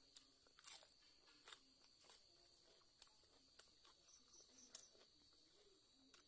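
Faint crisp crunches of someone chewing raw vegetables, short sharp bites about every half second. A steady, faint high-pitched tone runs behind them.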